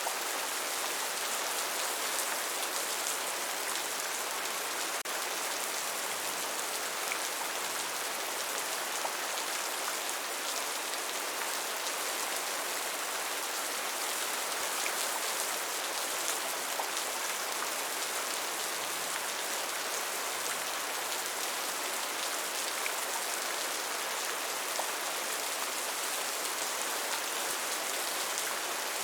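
Steady rain falling, a constant even hiss with faint individual drops ticking through it.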